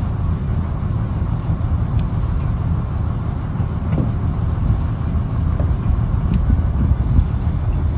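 Fishing trawler's engine running steadily, a loud low rumble with a few faint clicks on top.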